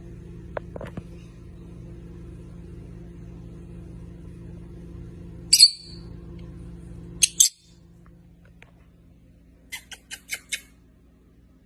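A pet bird's short, high-pitched chirps: one about halfway through, a sharp double call a couple of seconds later, and a quick run of about five chirps near the end, over a steady low hum.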